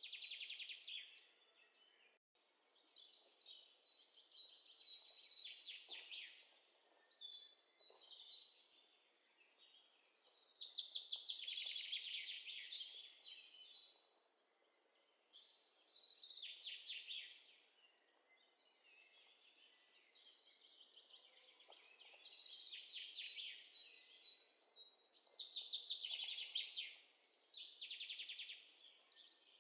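Birds singing: rapid trilled phrases of a second or two, repeated every few seconds with short pauses between.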